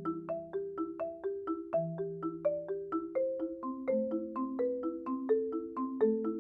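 Marimba played with mallets in a steady, flowing pattern of about four notes a second, the low bars ringing on under the higher notes. Raw, unprocessed sound picked up by microphones under the instrument.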